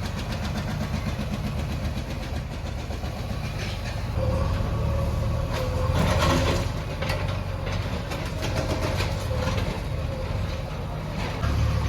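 Diesel engine of heavy demolition machinery running steadily, with a steady whine joining in about four seconds in and a louder burst of noise about six seconds in.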